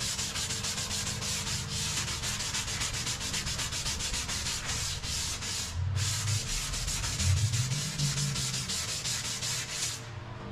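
Sanding cured Bondo body filler on a car body panel with quick, even back-and-forth strokes, about six or seven a second. The strokes break off briefly about six seconds in and stop near the end.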